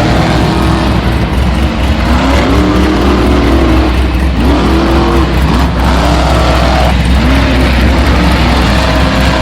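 Electric RC monster truck motor whining, its pitch rising and falling again and again as the throttle is worked, over a steady loud rumble of driving on dirt.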